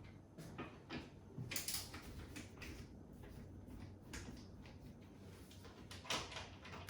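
Small clicks and knocks of kitchen rail fittings being handled and fitted by hand, with a few louder knocks about one and a half seconds in and another near the end.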